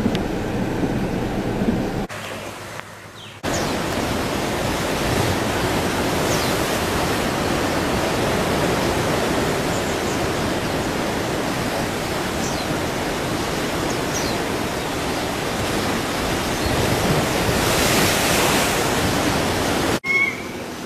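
Steady loud rushing noise, like wind or running water, that drops out abruptly for about a second and a half near the start and cuts off again near the end.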